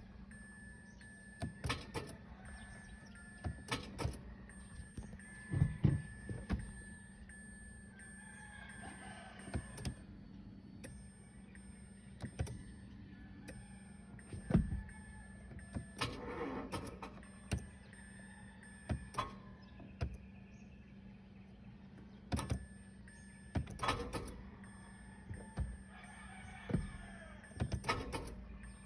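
Irregular clicks and knocks from a Mitsubishi Mirage hatchback as its owner tries again and again to start it, with no engine running. The cause is a weak battery. A rooster crows three times in the background.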